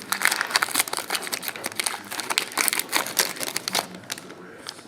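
Plastic wrapper of a trading-card pack crinkling as it is torn open and handled, a dense crackle that dies down near the end.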